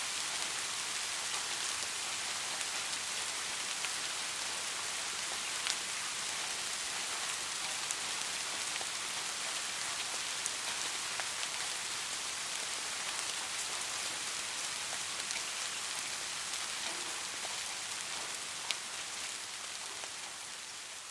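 Steady rain falling: an even hiss with a few sharper drop taps here and there, fading down near the end.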